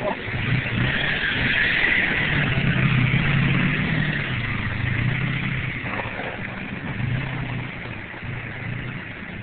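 Motorcycle engine running under way, its pitch rising and falling as it speeds up and eases off, loudest in the first half and settling lower toward the end, with a steady hiss over it.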